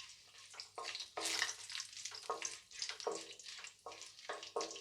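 Bay leaves and marathi moggu sizzling in hot oil in a kadai, with irregular crackling bursts.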